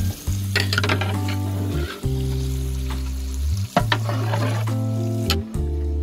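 Chopped tomatoes sizzling in oil in a large metal pot, stirred and scraped with a long-handled flat ladle, with a few sharp scrapes against the pot. Background music with a bass line that changes note about every second and a half plays under it and is the loudest part.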